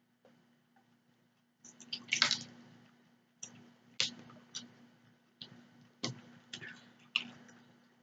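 Close-miked wet mouth sounds of chewing cheese-topped spaghetti: a cluster of loud wet smacks about two seconds in, then single wet clicks and smacks every half second to a second.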